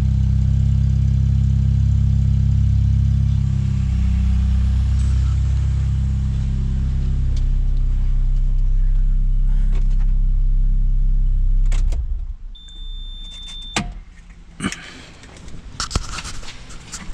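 Lotus Elise four-cylinder engine with factory sport exhaust idling steadily after a cold start. Its idle speed drops in two steps, at about four seconds and at about seven and a half, as the fast cold idle settles. The engine shuts off about twelve seconds in, followed by a short high beep and a few clicks and knocks.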